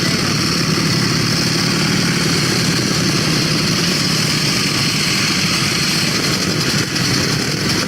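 Vintage motorcycle engine running steadily at idle, a fast even beat, over steady tape hiss.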